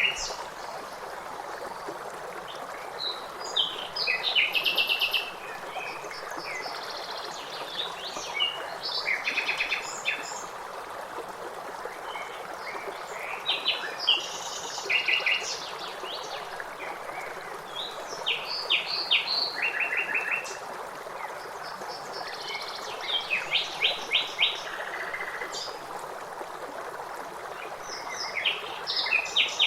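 Birds chirping in short phrases of quick repeated notes every few seconds, over the steady rush of a waterfall.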